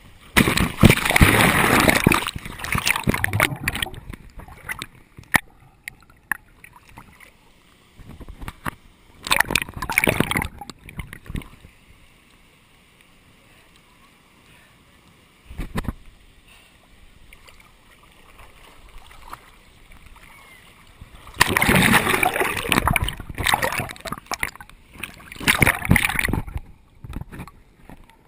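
Water splashing close to a GoPro camera, in loud bursts of splash and slosh. The bursts come near the start, again around ten seconds in, and for several seconds near the end, with quiet stretches between.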